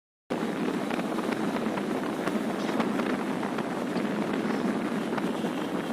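Steady wind and road noise on a motorcycle rider's microphone while riding, starting abruptly after a moment of silence.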